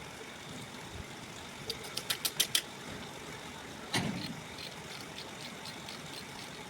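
Hand tools working on a dismantled diesel engine: a quick run of about six sharp metallic clicks, then one knock about four seconds in, with a few faint ticks after, over a steady background hum.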